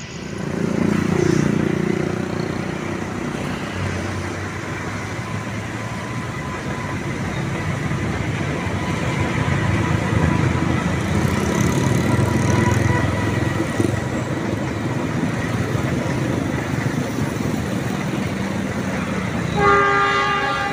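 Diesel-hauled passenger train rolling across a steel truss bridge, a steady rumble of wheels and engine. Near the end the locomotive sounds its horn, one sustained multi-tone blast.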